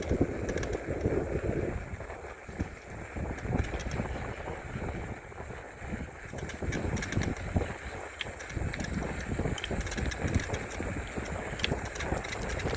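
Wind buffeting the microphone of a moving bicycle, a gusty low rumble, with light ticks that come more often near the end.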